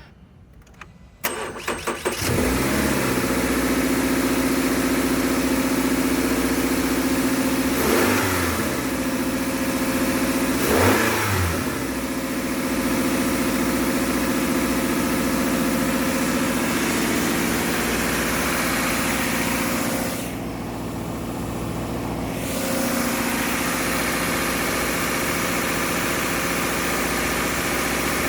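2021 Subaru Outback's flat-four engine being cranked by the starter, catching and settling into idle, then revved twice a few seconds apart, each rev rising and falling back, before idling steadily again. A used engine being test-run to show it starts and runs.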